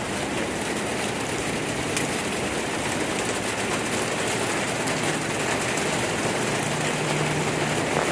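Heavy, wind-driven rain falling steadily, with a faint low hum joining about five seconds in.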